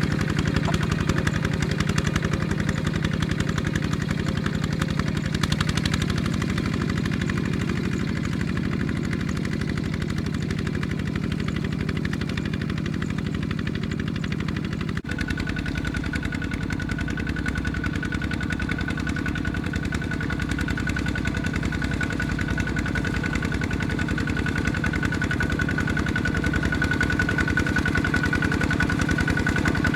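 Engine of a ZT 155 tractor running steadily. About halfway the sound changes abruptly and a steady high whine joins the engine.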